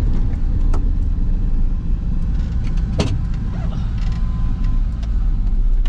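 Suzuki Carry mini van running along the road, heard from inside its cabin: a loud steady low engine and road rumble with a few sharp rattles and knocks from the body, the strongest about three seconds in.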